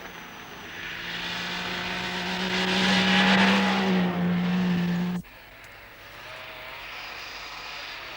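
Rally car engine running hard and growing louder, then cutting off suddenly about five seconds in; a quieter engine with a lower, wavering note follows.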